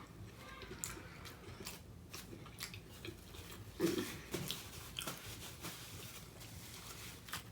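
Close mouth sounds of eating a homemade ground-turkey burrito: chewing with short wet clicks and smacks at irregular intervals, and a brief low hum about four seconds in.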